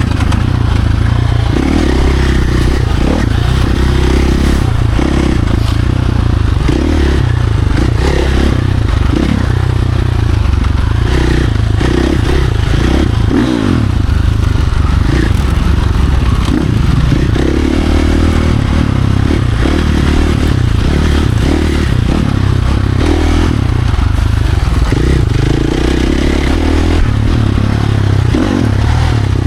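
Dirt bike engine run hard on trails, its pitch rising and falling continuously as the throttle opens and closes, with rattling and scraping noise over it.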